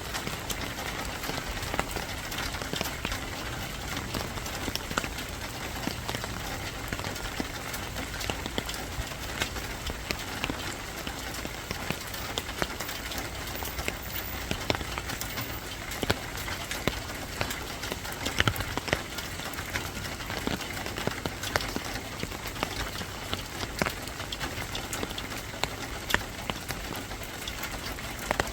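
Steady rain falling, with many individual drops striking close by as sharp ticks.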